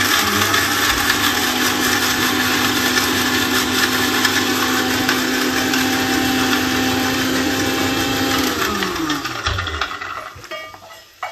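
Electric mixer grinder (mixie) running at full speed, then switched off about eight and a half seconds in, its motor note falling in pitch as it winds down.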